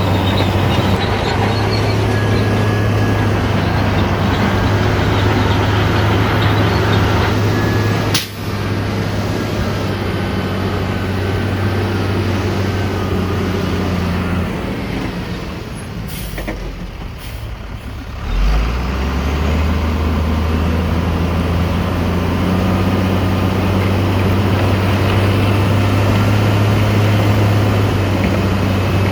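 Heavy diesel engine of earthmoving machinery running steadily with a deep hum. It fades for a couple of seconds past the middle, then comes back on a lower, steady note.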